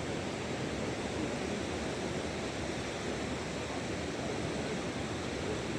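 Steady rushing noise of waves on the Gulf of Finland shore, with no single breaks standing out.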